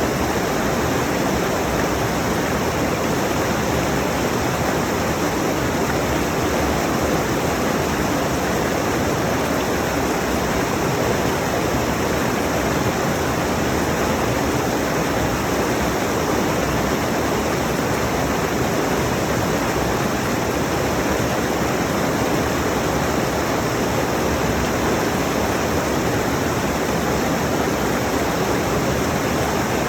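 Mountain stream rushing over rocks: a steady, even wash of water noise, recorded close with a phone.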